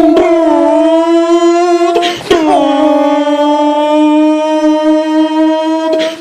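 A person imitating a race car engine with their mouth: a long, held, pitched engine drone. About two seconds in it breaks off briefly, then comes back lower in pitch and is held steady again until near the end.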